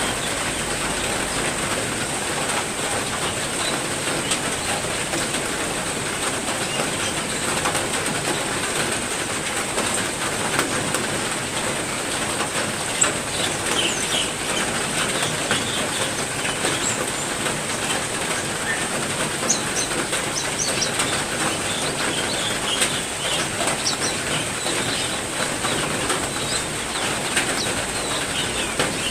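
Steady heavy rain falling, with songbirds in an aviary giving short high chirps over it, most of them in the middle stretch.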